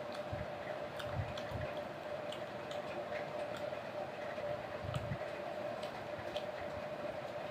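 A person eating fried chicken, with scattered small mouth clicks from chewing and a few soft knocks, over a steady background hum.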